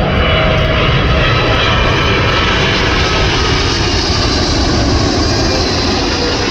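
Engines of a widebody jet airliner passing low overhead on final approach: a loud, steady rushing noise, with a whining tone that drops slightly in pitch as the aircraft goes by.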